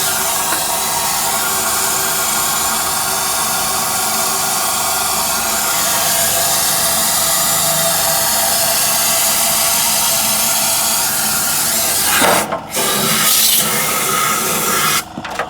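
A loud, steady hiss that breaks off briefly about twelve seconds in and stops just before the end.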